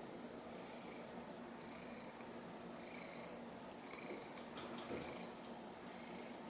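Mackerel-tabby cat purring steadily, the purr swelling and easing about once a second with each breath. There are a few faint clicks about four to five seconds in.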